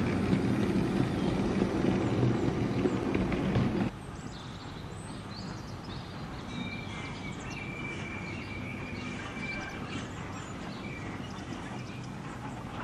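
A goods train rumbling past for about four seconds, then cut off suddenly. Birdsong follows over a faint steady background.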